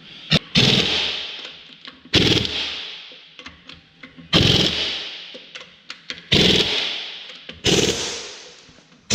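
Impact wrench driving lug nuts through a torque stick, in a series of short bursts about every two seconds, each cutting in sharply and trailing off as the nut reaches the stick's torque limit.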